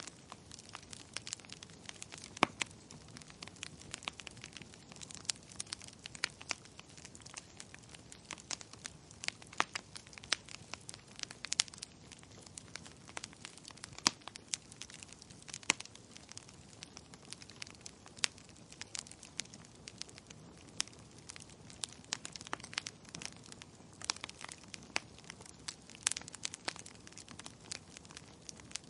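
Wood fire crackling: irregular sharp pops and snaps from burning firewood over a soft low hiss of the flames.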